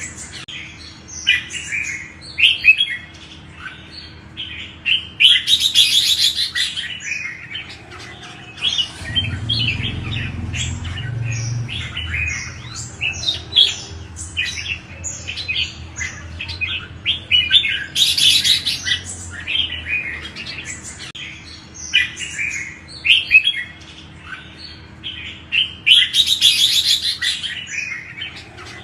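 Red-whiskered bulbuls singing: a dense string of short whistled chirps, broken by harsh, scratchy bursts of chatter about six, eighteen and twenty-six seconds in. A faint steady hum runs underneath.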